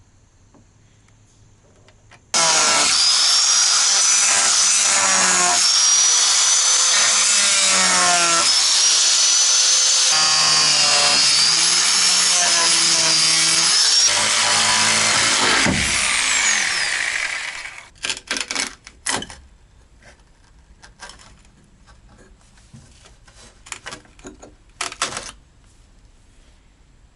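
Handheld power cutting tool cutting out a section of a van's rear valance to clear a tow hitch, its whine wavering in pitch under load for about thirteen seconds, then winding down with a falling pitch. A few short knocks and rattles follow near the end.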